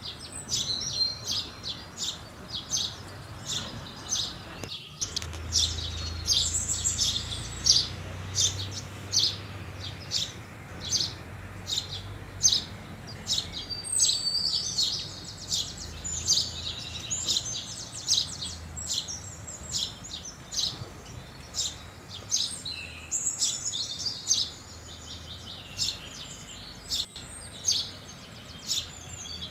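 Flock of house sparrows chirping: a continuous run of short, sharp chirps, about two a second, with stretches of overlapping chatter. A faint low hum lies underneath from about five seconds in.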